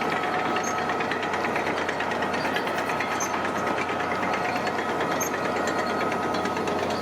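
Heavy construction machine's diesel engine running steadily, with a fast, even clatter and a thin steady whine over it.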